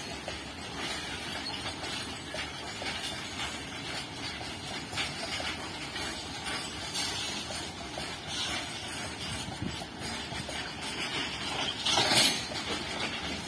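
Loaded and empty open-top freight wagons rolling past at speed: a steady rumble of wheels on rail with light clicks at the rail joints, and a louder clatter near the end.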